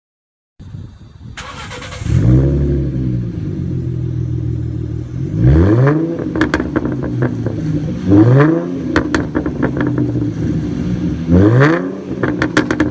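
A 2011–2014 Ford Mustang starting: the starter cranks for about a second and a half, then the engine catches with a rev flare and settles into a lumpy idle. It is then revved three times, each blip followed by crackles and pops from the exhaust as the revs fall.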